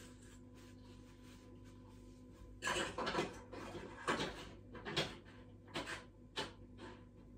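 Steady low hum, then from about two and a half seconds in a series of about six sharp knocks and clatters, roughly one a second, as of hard household objects being handled and set down.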